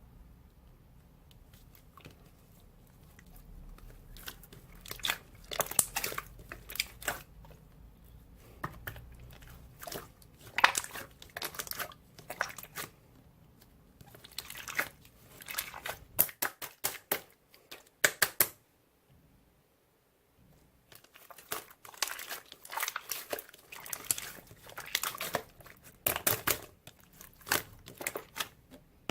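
Irregular crinkling and crackling in quick bursts, like something being scrunched or handled, with a brief pause near the middle.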